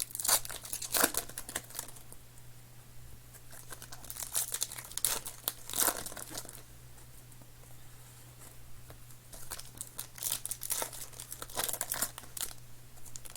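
Plastic wrappers of football card packs crinkling and tearing as packs are ripped open and handled, in irregular bursts of rustling with quieter stretches between. A steady low electrical hum runs underneath.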